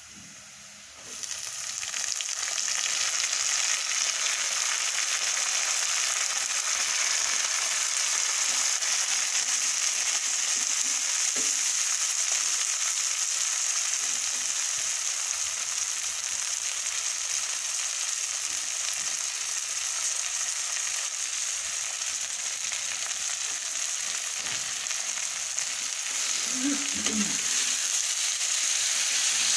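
Freshly washed chopped dill tipped into hot oil with browned onions: a loud frying sizzle starts suddenly about a second in and carries on steadily while a steel ladle stirs the greens.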